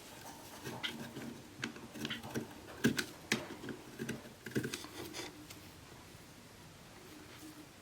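Irregular light clicks and knocks of small pieces and tools being handled at a workbench, stopping about five and a half seconds in.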